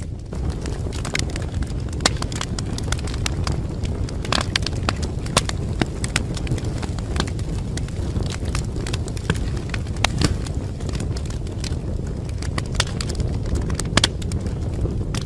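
Wood fire burning in a fireplace, crackling and popping with many sharp snaps over a steady low rumble.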